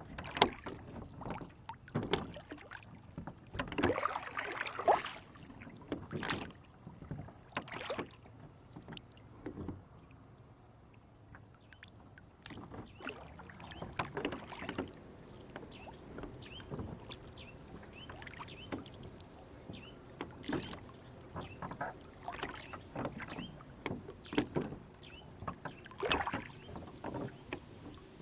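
Water lapping and splashing against a rowboat, with irregular knocks on the hull and a short quieter lull partway through.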